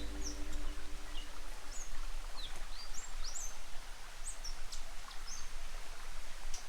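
Birds chirping with many short, quick calls over a steady background hiss of bush ambience. Low music tones fade out in the first two seconds.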